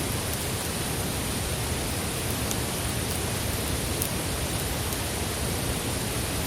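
Wood campfire burning with a steady hiss and a few faint crackles.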